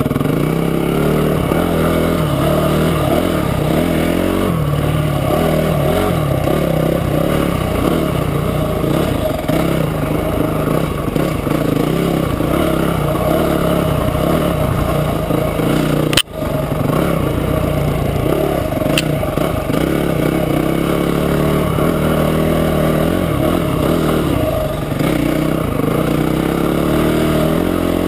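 Motorcycle engine running steadily under way on a trail, its note rising and falling a little. About halfway through there is one sharp click with a momentary drop in sound, and a fainter click a few seconds later.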